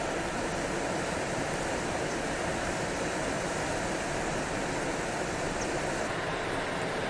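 Steady rushing of the swollen Sagami River in flood, running high and fast with water released from Shiroyama Dam.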